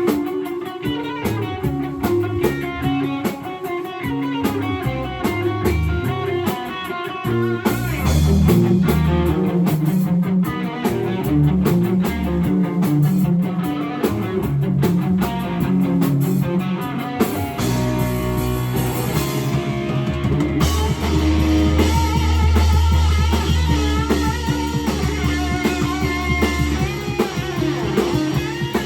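A rock band playing live, with guitar and drum kit, and no singing. The arrangement changes a few times, about eight seconds in and again near seventeen and twenty seconds.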